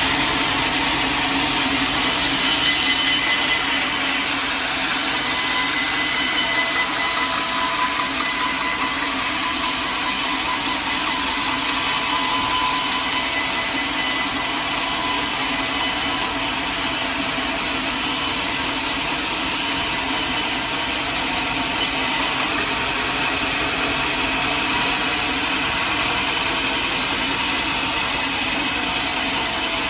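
Sawmill blade cutting steadily through a log, a continuous sawing noise with a steady machine hum underneath.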